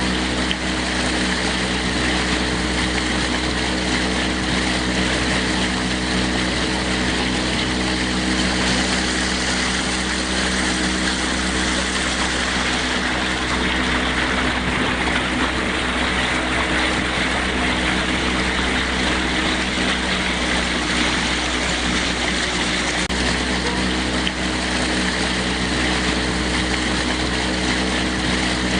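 Water rushing against rocks, a steady, even wash of noise with a constant low hum beneath it.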